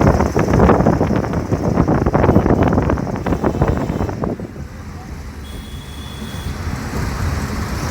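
Wind buffeting the microphone of a camera held in a moving vehicle, over road and engine rumble. About four seconds in the buffeting dies down, leaving a steadier, quieter road rumble.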